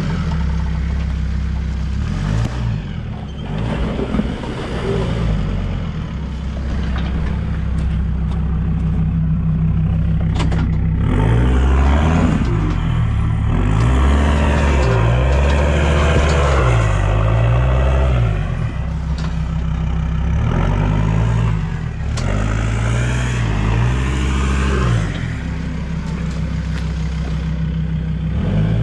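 Four-wheel-drive engine working under load over rough off-road ground, its revs rising and falling again and again, most busily through the middle.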